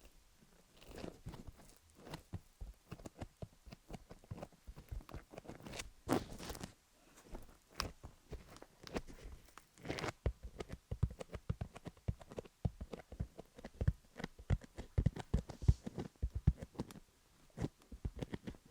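Fingers working sticky Vaseline over a rhinestone-studded dummy-head microphone, giving close, dense, crackly clicks and taps. They come in quick irregular runs with short pauses.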